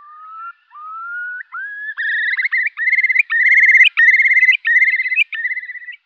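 A songbird singing: a few slow rising whistled notes, then from about two seconds in a louder run of quick trilled phrases at a higher pitch.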